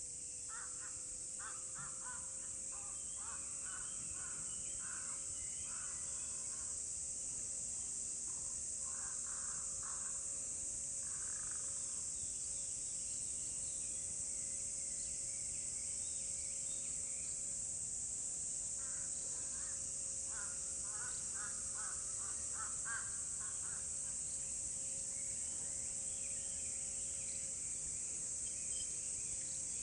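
Crows cawing in quick runs of repeated calls, in three or four bouts, over a steady high-pitched hiss and a faint steady low hum.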